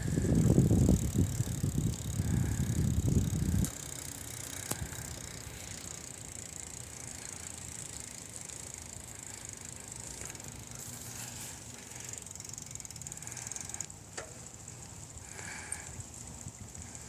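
Bicycle riding on a woodland trail: loud, uneven low rumble of wind and tyres on the microphone for the first few seconds, then it drops suddenly to a low steady hiss with a few faint clicks.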